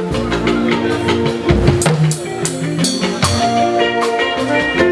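Live fuji band playing an instrumental passage between sung lines: drums and percussion over held keyboard or guitar notes, with no singing.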